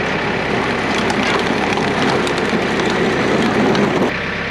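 John Deere 110 backhoe's diesel engine worked up above idle with metal rattling and clanking, dropping back to idle about four seconds in.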